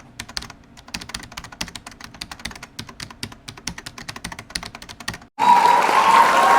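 Rapid, irregular keyboard typing clicks. About five seconds in, they give way suddenly to loud applause.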